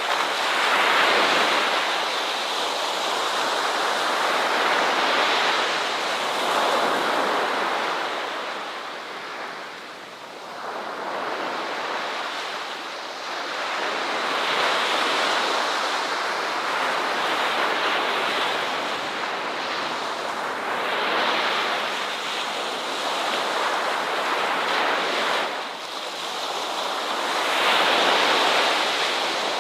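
Ocean surf: waves breaking and washing up the shore in repeated swells, each rising and falling over a few seconds.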